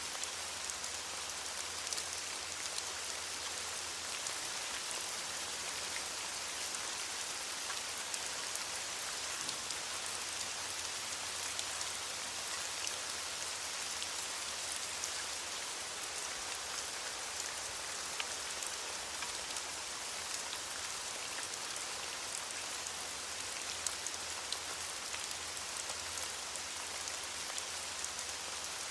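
Steady rain falling on leaves: an even hiss with scattered individual drop patters.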